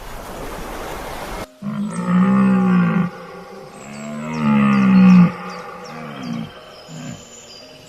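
A large animal calling: two long, deep calls that rise and fall in pitch, then two short ones near the end, after a hissing noise that cuts off about a second and a half in.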